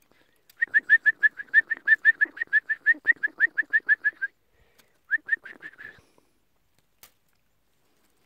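Nestling chicks calling in a fast string of short, shrill, rising calls, about six a second, then a shorter burst after a pause: begging calls from hungry, heat-stressed chicks in the nest.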